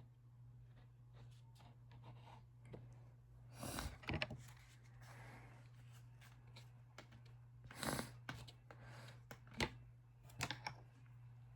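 Intermittent mouth and breathing sounds of a person eating and crying: a few short, noisy sniffs or breaths and small sharp clicks at irregular intervals, over a steady low hum.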